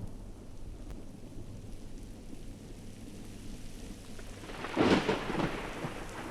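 Thunderstorm: steady rain with a low rumble, and a sharp thunderclap about five seconds in that rolls off quickly.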